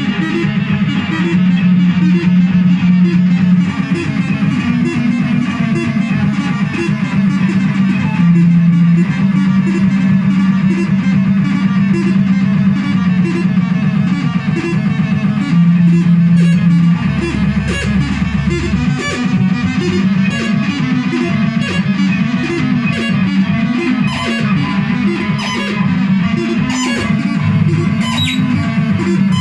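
Noise music from a handmade synthesizer: a loud, dense drone with held low tones that jump in pitch every few seconds, overlaid with rapid crackling clicks. A deeper bass tone sounds briefly a little past the middle.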